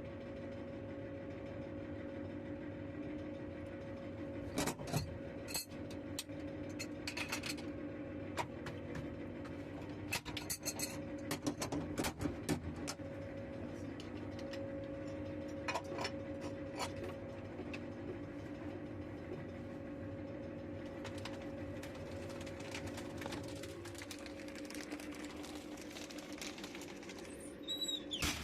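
Steady machine hum with scattered metallic clinks and rattles, and a brief high squeak falling in pitch near the end.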